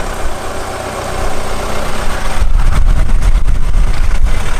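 Nissan X-Trail running slowly on a rough track, the engine's low rumble growing much louder about two and a half seconds in, with a quick run of knocks and bumps over it.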